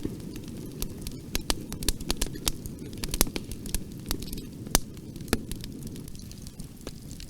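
Bonfire burning: a steady low rumble of flames with frequent sharp, irregular crackles and pops of burning wood, a couple of them louder than the rest.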